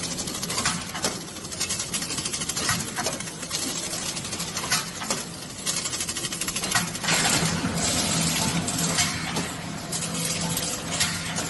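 Automatic welding-rod weighing and bagging packaging machine running: a dense, irregular metallic clicking and clattering over a steady machine hum, with a louder, hissier stretch a little past the middle.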